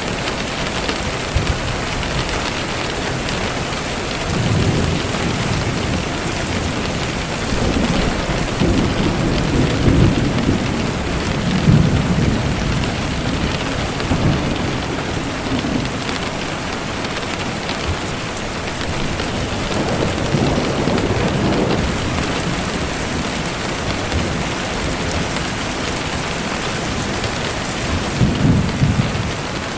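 Steady rain falling, with low rolling thunder rumbles swelling up several times: about four seconds in, a longer spell a few seconds later, around twenty seconds in and near the end.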